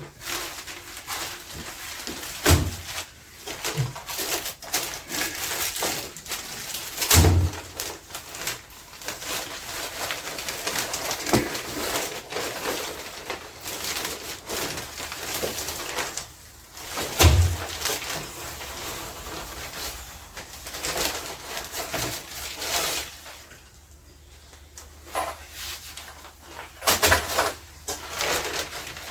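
A parcel being unpacked: plastic packaging crinkling and rustling, with four dull thumps as items are handled.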